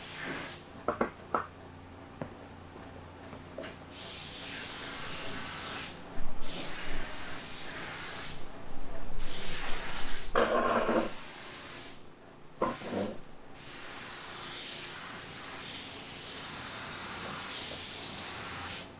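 Compressed-air paint spray gun hissing in repeated passes of a couple of seconds each, starting and stopping abruptly several times.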